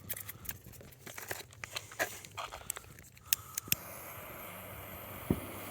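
Mini Ladybug novelty fireworks being lit: scattered crackling and clicking, then a steady hiss that starts about three seconds in. A single low knock comes near the end.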